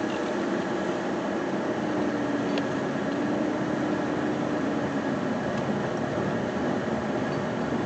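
Steady running noise of a vehicle driving, heard from inside the cab, with a low hum that wavers slightly in pitch and fades out about five seconds in.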